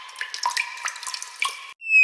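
Water sound effect of quick drips and plops, which cuts off abruptly near the end. A falling whistle tone then starts and glides steadily down in pitch.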